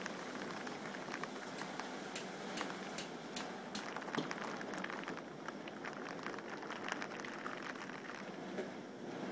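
Steady rain hissing during a thunderstorm, with scattered sharp drops ticking close by, most of them in the first few seconds. No thunder is heard.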